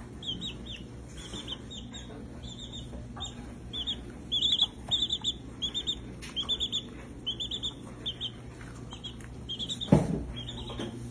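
A baby chick peeping over and over, high-pitched peeps in quick runs, with a single thump near the end.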